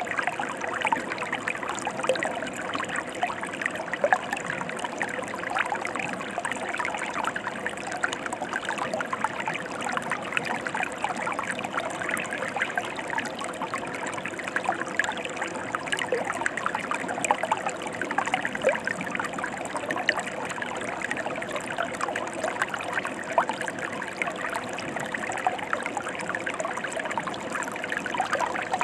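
Mountain stream flowing steadily: a continuous rush of water with many small splashes.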